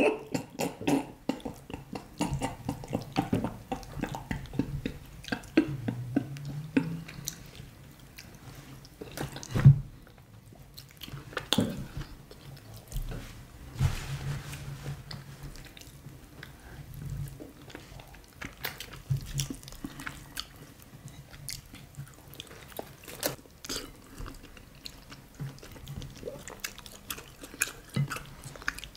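Close-miked wet chewing and lip smacking of fufu and banga soup, with squelching as bare hands work the food in the soup. The smacks and clicks are short and irregular throughout.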